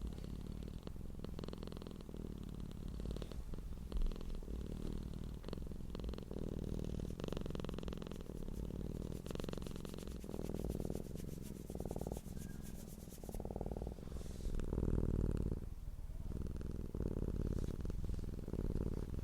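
Domestic cat purring: a low, continuous rumble that swells and eases in stretches of about a second.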